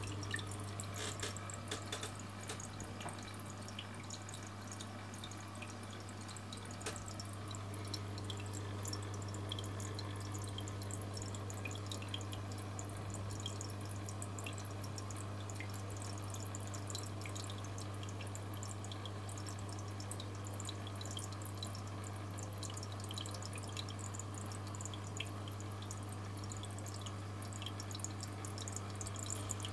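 Aquarium water trickling and bubbling, with many small drip-like ticks, over a steady low hum from the tank's pump.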